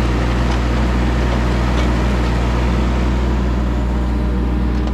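A 2.5-tonne Kubota mini excavator's diesel engine running steadily, a loud, even low hum.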